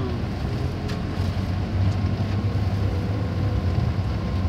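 Steady low rumble of a vehicle running, with a faint steady hum above it.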